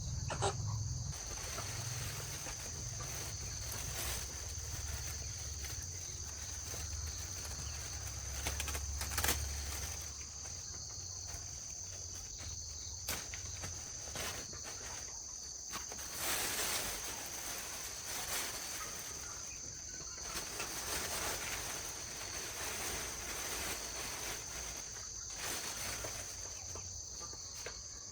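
A steady, high-pitched insect chorus, with a few sharp knocks and a low rumble that fades about ten seconds in.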